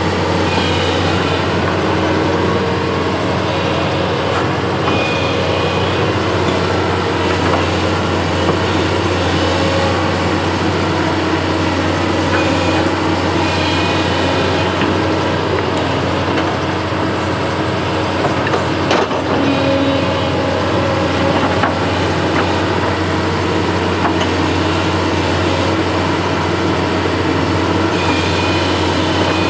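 Diesel engine of a construction machine running steadily, with a deep steady hum under a loud mechanical noise. A single sharp knock comes about two-thirds of the way through.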